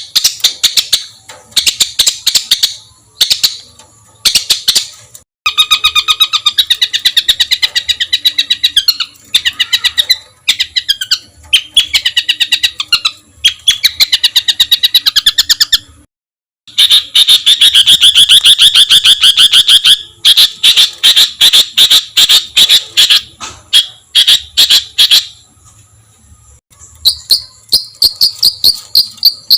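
Songbird singing harsh, rapid-fire phrases of quickly repeated notes and rattling trills, the rough 'tembakan' bursts used as masteran to tutor competition birds. The song stops abruptly twice, a little after 5 seconds and near 16 seconds, then resumes.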